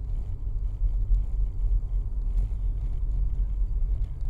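Steady low rumble of a car driving in traffic.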